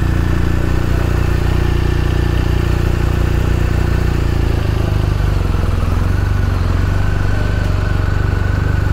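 BMW R1250RS's boxer-twin engine running steadily, with no rise or fall in revs.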